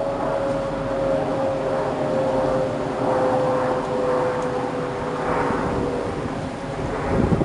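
Steady engine drone from a passing vehicle, with a single held tone that slowly falls in pitch.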